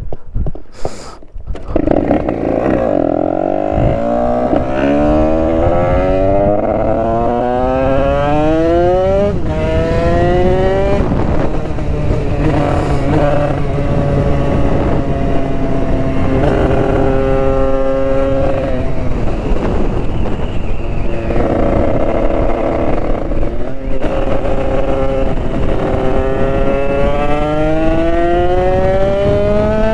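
Two-stroke Derbi moped engine bored out with an Italkit 80cc cylinder, accelerating hard through the gears: the pitch climbs, drops back at each gear change and climbs again, with a stretch held at steady revs in the middle.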